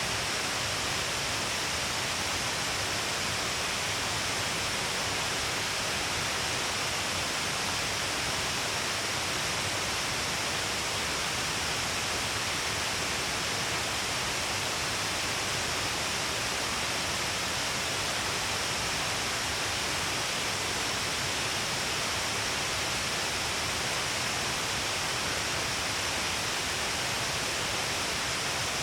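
Steady rushing of water from the Shiraito Falls streams, an even hiss with no breaks.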